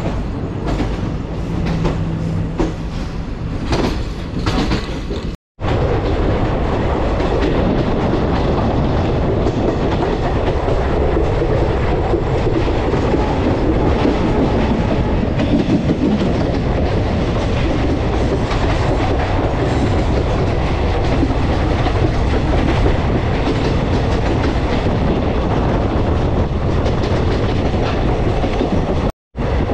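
Passenger train running on the rails: wheels clatter over rail joints for the first few seconds. After a sudden break about five seconds in, a steady, dense rumble of the train rolling along takes over, and it cuts off briefly again near the end.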